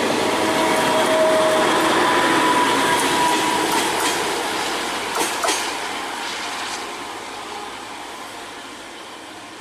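Passenger train rolling past at speed: a steady rush of wheels on rail with a faint steady wheel squeal, two sharp clicks over a rail joint about five seconds in, then the sound fades as the train draws away.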